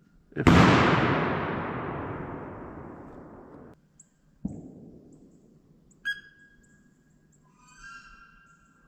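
A shotgun shot with a long echoing fade that is cut off abruptly, then a second, quieter shot. High, thin whistled calls follow near the end.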